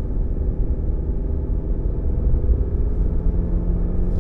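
Truck driving uphill: steady low rumble of engine and road noise, with a faint engine hum that becomes a little clearer near the end.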